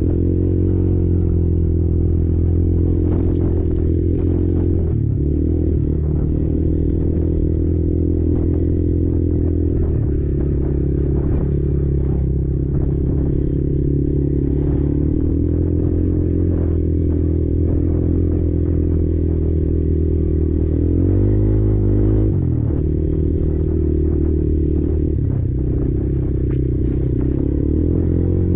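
Kymco Maxxer 300 quad's engine running steadily on the move, its engine speed changing a few times, with a pronounced drop and rise about two thirds of the way through. Frequent clattering and knocks from the machine going over rough ground.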